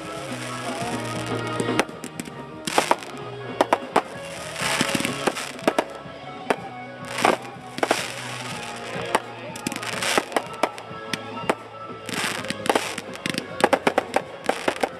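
Fireworks show: aerial shells bursting with many sharp bangs and crackling hiss, scattered irregularly, with music playing along underneath.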